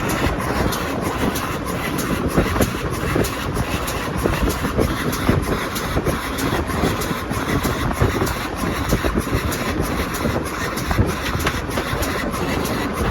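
A train running on the line: a steady rush of wheel, track and running noise with frequent short clicks over it, holding an even level throughout.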